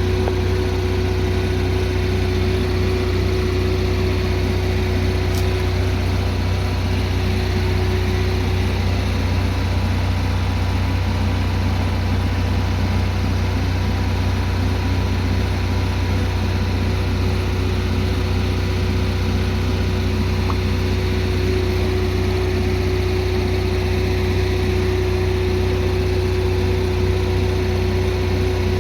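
Kohler Confident 5 generator running at a steady speed: a constant engine hum with a steady tone.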